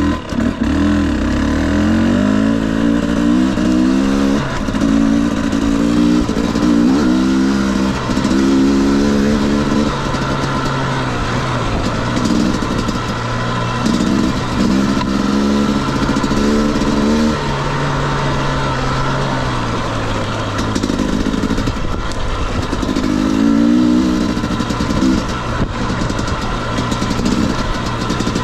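2021 Husqvarna TE250i fuel-injected two-stroke single-cylinder dirt bike engine being ridden, its revs rising and falling over and over as the throttle is worked.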